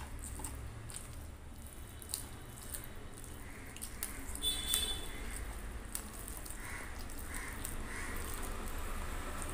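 Close-up eating sounds: wet chewing and lip smacks as a mouthful of rice and curry is eaten, with fingers squishing rice on a steel plate. Scattered soft clicks and smacks, one sharper click about halfway, over a steady low hum.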